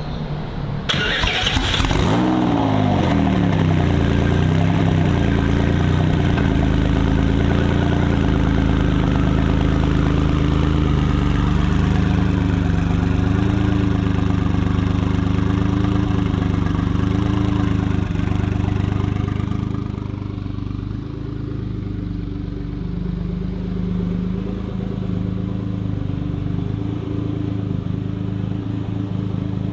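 Jaguar XJ220's twin-turbo V6 starting about a second in with a brief flare in revs, then settling into a steady idle. The idle drops lower and quieter about twenty seconds in.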